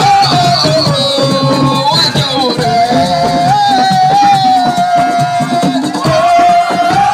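Senegalese assiko band music playing loudly: a long, wavering lead melody bends up and down over a busy percussion groove.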